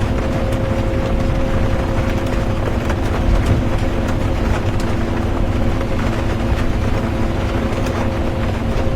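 Interior of a moving bus: steady engine hum and road rumble, with light rain ticking on the bus.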